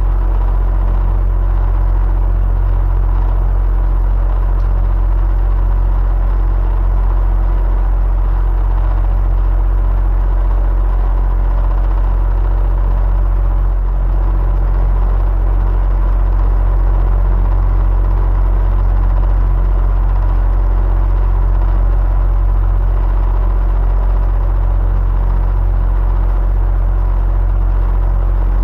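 Electric fan running steadily: a constant low hum under an even whoosh of moving air, unchanging throughout.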